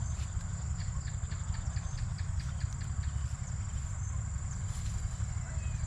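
Steady high-pitched drone of insects, crickets, over a low rumble, with a run of light ticks or taps through the first few seconds.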